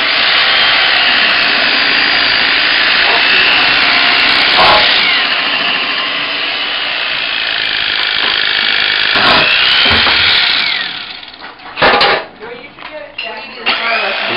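Electric carving knife running steadily as it slices turkey breast, its buzz rising and falling a little in pitch with the strokes. It stops about eleven seconds in, followed by a few sharp knocks.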